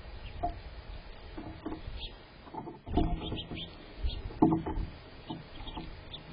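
Irregular light knocks and taps, a few at a time in clusters, over a steady low rumble.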